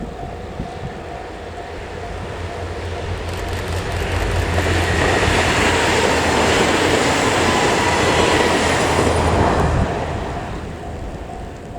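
Four-car KiHa 110 series diesel railcar train passing: rail and wheel noise builds over a few seconds, holds loud with a faint high ringing from the wheels, and fades away near the end.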